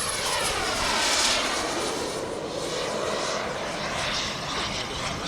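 Kingtech turbine of a 1:5 scale radio-controlled F-16 model jet running in flight as the jet passes, loudest about a second in, with a thin high whine that slowly falls in pitch.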